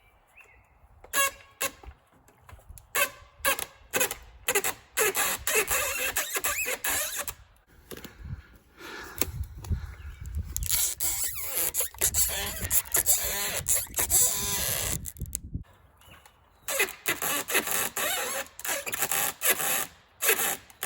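Irregular scraping, knocking and squeaking of wood and metal, typical of a chainsaw bar pinched fast in a felling cut being worked at, with longer stretches of scraping noise in the middle.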